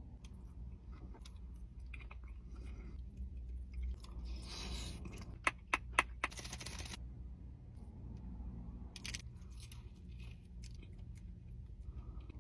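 A person eating, with faint chewing, crunching and handling noises over a steady low hum. A few sharp clicks come in quick succession about halfway through.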